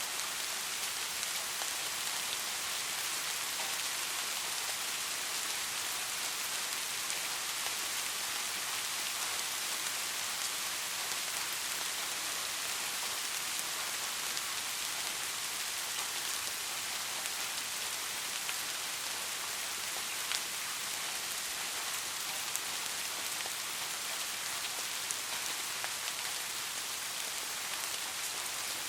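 Steady rain falling on a street: an even hiss with scattered ticks of single drops.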